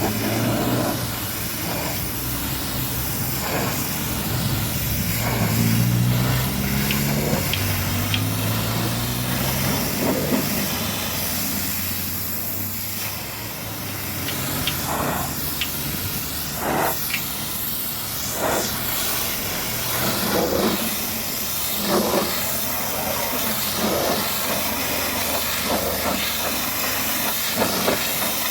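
Pressure washer spraying water against a truck: a steady hiss that swells every second or two as the jet moves. A low hum rises slightly in the first third.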